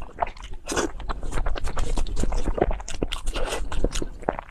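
Close-up eating sounds: food being chewed and crunched, with scraping and many quick clicks.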